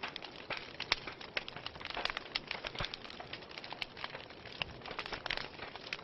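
Fireplace fire crackling: frequent irregular pops and snaps over a steady soft hiss.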